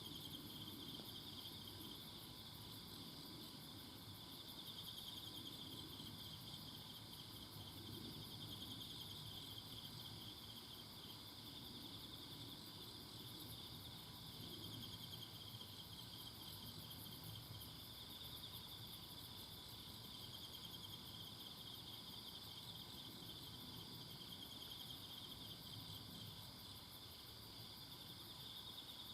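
A chorus of singing insects, crickets among them, trilling continuously in high-pitched rapid pulses, with faint low background noise.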